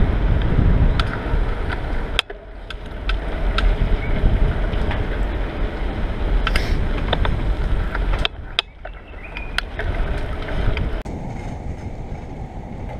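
Wind buffeting the microphone of a moving bicycle, with scattered sharp clicks and rattles. The rumble drops away briefly about two seconds in and again around eight seconds in.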